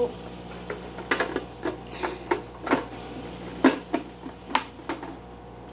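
Plastic fittings of a small corner aquarium clicking and knocking as they are handled and pushed into place: about a dozen sharp, irregular clicks, the loudest a little past halfway.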